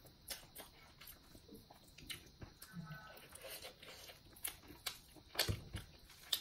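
Close mouth sounds of someone eating rice and chicken curry by hand: quiet chewing and lip smacks with scattered small clicks, and soft rustles of fingers working the food on the plate.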